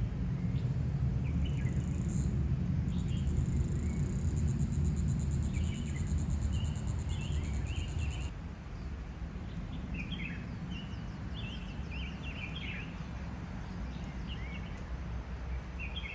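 Forest birds chirping in short, scattered calls, over a low steady rumble that drops away about eight seconds in.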